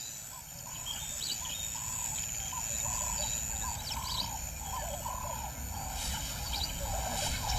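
Wild birds calling in the bush: a long run of short, arching calls repeated every half second or so, with a few higher chirps among them.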